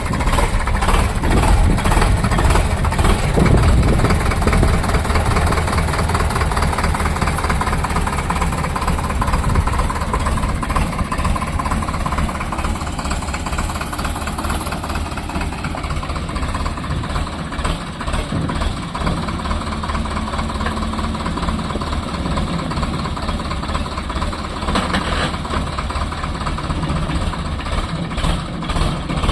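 Sonalika DI 750 tractor's diesel engine running steadily with an even, pulsing beat.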